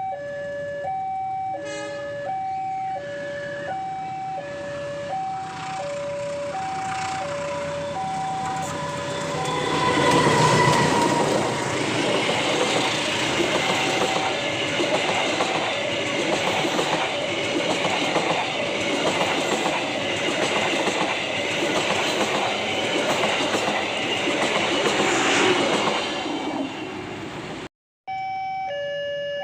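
Railway level-crossing warning alarm repeating two alternating electronic notes, low then high, about once a second. About ten seconds in a train arrives with a short horn note and passes with a loud rumble and a steady clatter of wheels over rail joints for about fifteen seconds. Near the end the sound cuts out for a moment and the two-note alarm resumes.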